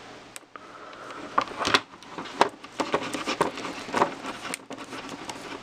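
Irregular light clicks and taps of small hand tools and RC truck parts being handled and set down on a workbench.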